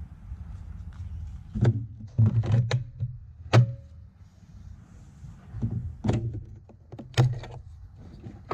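Bosch Rotak 37 LI cordless lawn mower in operation: a low hum broken by a series of sharp thunks and knocks.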